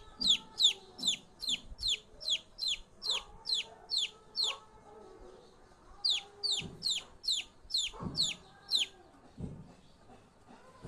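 A bird's rapid, high-pitched chirps, each falling in pitch, about three a second, in two runs separated by a pause of about a second and a half. Fainter, lower calls sound underneath.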